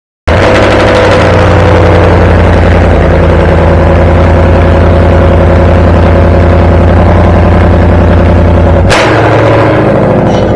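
Ford Mustang GT's V8 idling steadily and loudly through a resonator-deleted exhaust fitted with Roush performance mufflers. It starts abruptly just after the opening, and about nine seconds in there is a sharp click and the sound changes.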